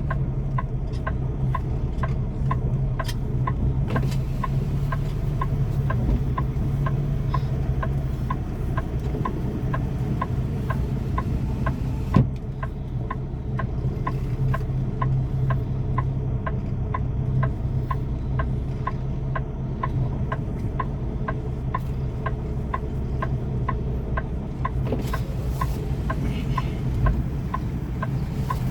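Semi-truck's diesel engine running, heard from inside the cab as a steady low hum, with an even ticking about two or three times a second throughout. A single sharp knock sounds about twelve seconds in.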